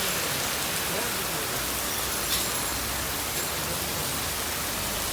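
Steady rain hiss, with a single light tick about two seconds in.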